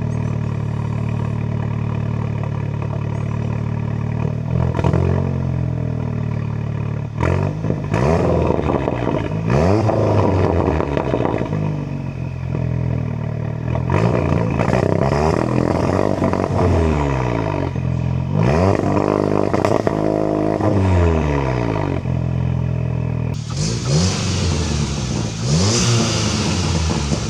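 Mk7 Volkswagen GTI's turbocharged 2.0-litre four-cylinder, fitted with a 4.5-inch ARM Motorsport downpipe, idling and then revved hard several times while standing. Each rev climbs and falls back to idle. A hissing rush sounds over the engine near the end.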